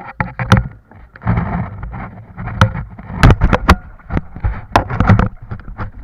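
Rushing, buffeting noise with irregular sharp knocks and splashes, as a banana boat is towed over the waves.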